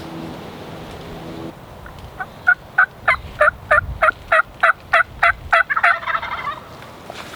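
Turkey yelping: a run of about a dozen loud yelps at roughly three a second, ending in a quick rolling burst.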